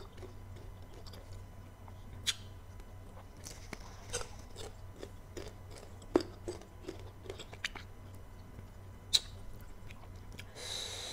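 Close-miked chewing of crisp unripe green mango slices, with scattered sharp crunches and wet mouth clicks, and a short hiss near the end.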